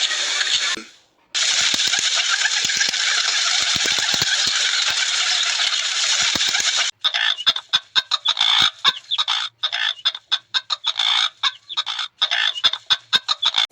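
Chickens clucking, in two cuts: a dense steady flock chatter, then from about seven seconds in a rapid run of short choppy clucks.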